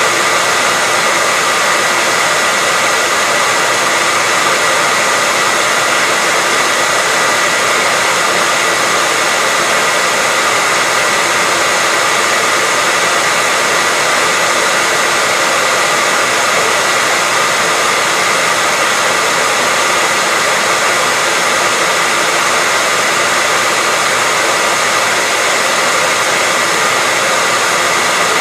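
Hair dryer running steadily: an even blowing noise with a faint high tone from its motor and fan, unbroken and unchanging.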